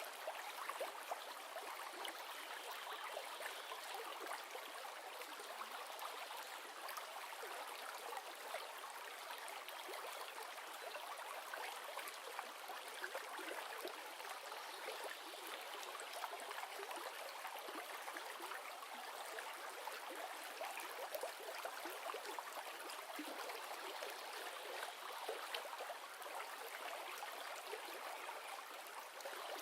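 River water running and babbling steadily, a continuous rushing with fine splashing flickers.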